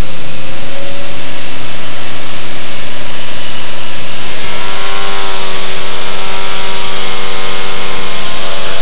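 Cessna 185 Skywagon's 300-horsepower six-cylinder engine and propeller running loud and steady as power is fed in for the takeoff roll. About four seconds in, the engine note grows stronger and clearer, then holds steady at takeoff power.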